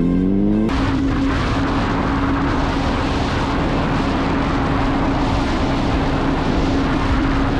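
A motorcycle engine revs up until just under a second in, then cuts abruptly to a steady engine tone at constant revs under a heavy, even rush of wind noise.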